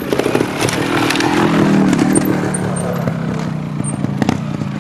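Trials motorcycle engine running at low revs with the throttle opening and closing, plus a few sharp knocks.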